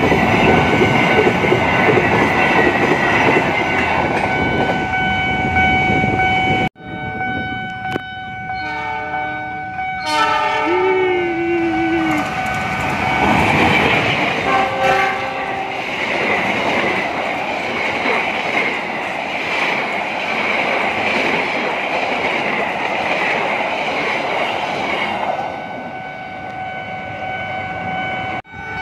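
A container freight train rolls past a level crossing, its wheels clattering over the rails while the crossing's warning bell rings steadily. After a cut, a diesel locomotive sounds its horn for a few seconds and then leads a passenger train past, with the wheel noise rising and then fading and the crossing bell still ringing.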